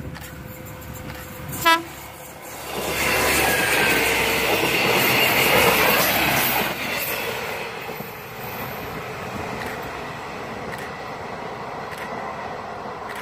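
A short horn toot from an orange-and-cream commuter multiple-unit train (KA Komuter Sulam) about two seconds in. Then the train passes close by with loud wheel and track noise, loudest around five to six seconds, easing off as it runs away down the line.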